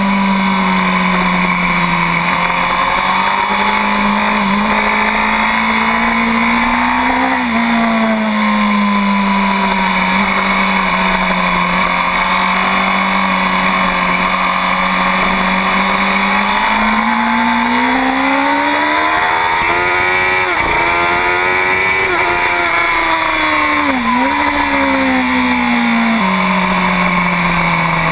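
2009 Honda CBR1000RR superbike's inline-four engine at racing speed, heard from on board over a steady rush of wind. Its note slides down and up through the corners, with a couple of sudden drops in pitch at gear changes and a short dip about three-quarters of the way through.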